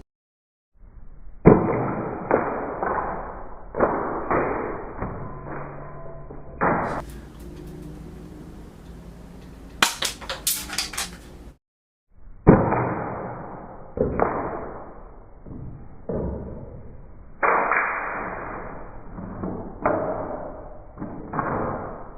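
Toy gun firing its plastic bullets at candles: a long series of dull shots, each with a short fading tail, and a quick run of sharper clicks about halfway through.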